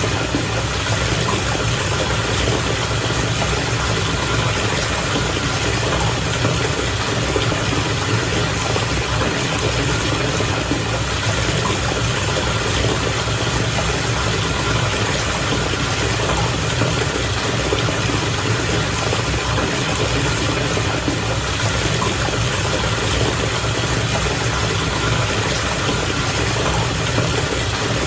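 Bath water bubbling and churning without a break, over a continuous low hum.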